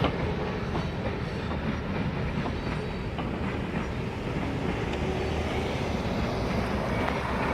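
Freight train rolling past: a steady rumble of cars on the rails with a few faint wheel clicks.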